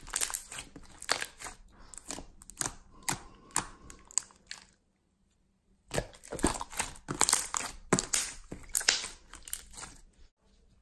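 Slime being squeezed and stretched by hand, giving a dense run of crackly clicks and pops. The sound breaks off for about a second midway, then starts again.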